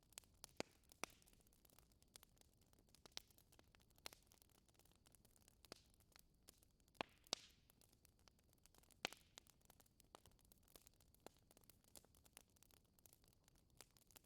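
Wood fire crackling in a fireplace: irregular sharp pops and snaps over a faint hiss, the loudest pops about seven and nine seconds in.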